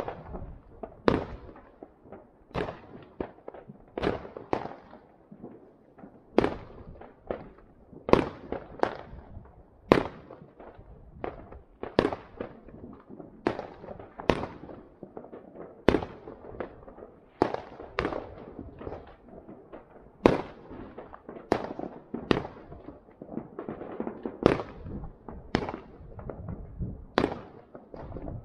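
Fireworks going off: a continuous, irregular run of sharp bangs, about one to two a second, each trailing off in a rolling echo.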